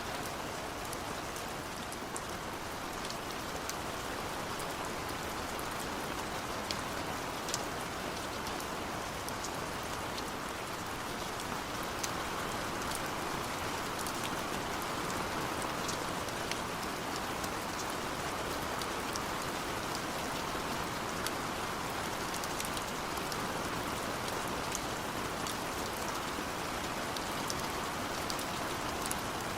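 Steady rainfall, a constant hiss of rain with scattered individual drops ticking sharply on a surface.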